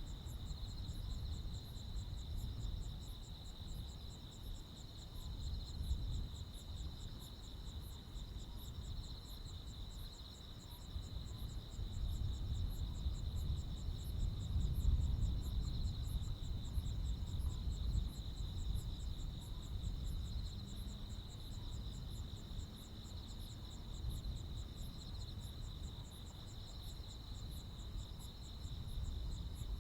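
Crickets and other insects chirping together in a steady night chorus, several species trilling at once with fast, evenly repeated pulses, over a low background rumble.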